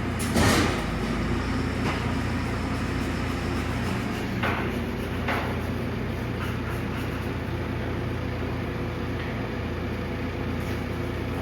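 An engine running steadily, with a few sharp knocks: one about half a second in, then others around two, four and a half and five seconds in.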